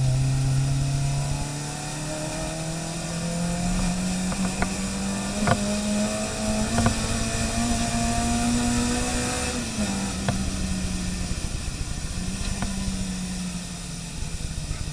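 Racing car's engine accelerating on track, its note climbing steadily for about nine seconds, then dropping as the driver lifts off, and easing away again near the end. A few sharp cracks sound around the middle.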